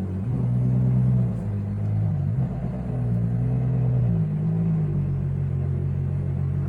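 Ferrari Daytona SP3's naturally aspirated V12 running at idle, its deep note swelling twice before settling to a steady idle about four seconds in.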